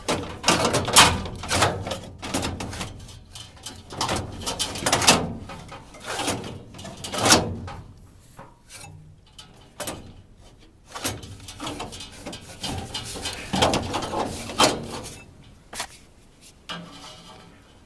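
A washable furnace filter being slid and pushed into its slot in the furnace, with irregular scraping and rubbing broken by sharp knocks and clunks.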